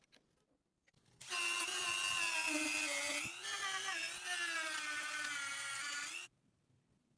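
Small electric power tool motor whining at high speed for about five seconds, starting and stopping abruptly, its pitch dipping briefly in the middle as if under load.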